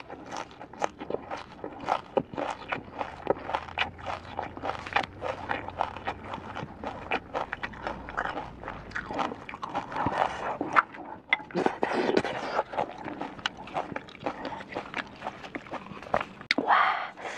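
Close-miked chewing of crisp raw green vegetable stems: a steady run of sharp crunches, two or three a second.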